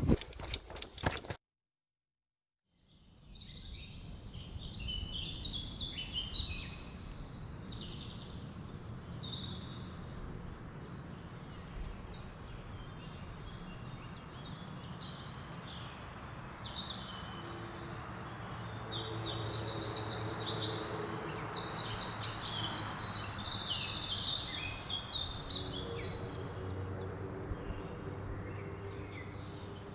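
Wild songbirds singing in a forest: many short high chirps over a steady low background rumble, with a loud, rapid trill of evenly repeated high notes about two-thirds of the way through. A brief silence near the start.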